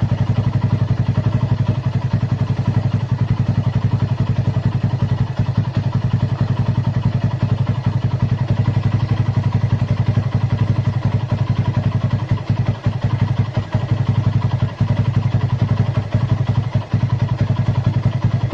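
A small engine running steadily at idle, with a rapid, even beat.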